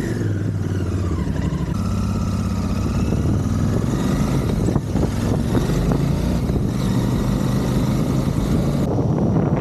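Royal Enfield Continental GT 650's parallel-twin engine running steadily as the motorcycle is ridden, its note shifting about two seconds in.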